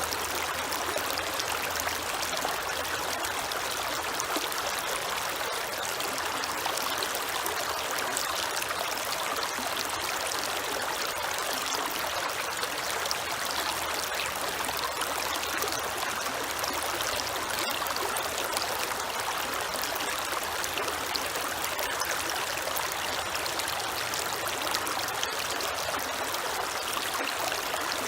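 Creek water running steadily over rocks, a constant even rush of flowing water.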